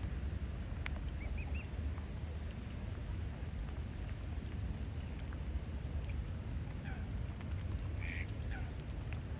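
Rain pattering onto the water over a steady low rumble, with a few short waterbird calls: three quick chirps about a second in and a few more calls near the end.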